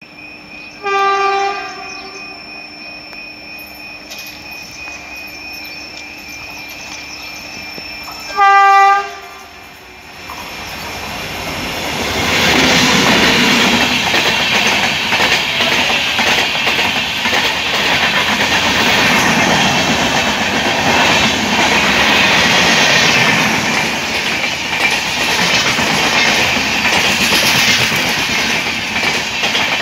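Indian Railways electric locomotive sounding its horn in two short blasts, about a second in and again near nine seconds, as it approaches. From about ten seconds the passing locomotive and its sleeper coaches build to a loud, steady rumble and clatter of wheels on the rails.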